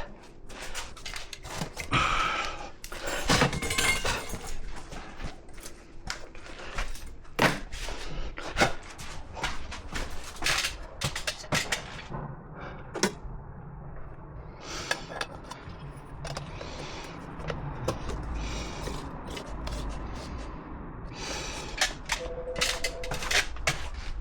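Irregular knocks, taps and clatter of tools and building materials being handled, in a small room.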